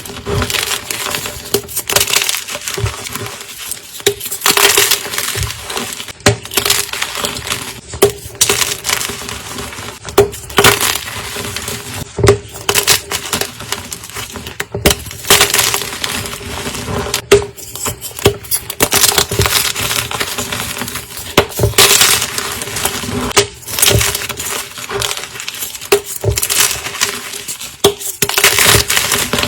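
Blocks of gym chalk being crushed, a continuous run of crisp, crunchy cracks and crumbling, uneven in loudness.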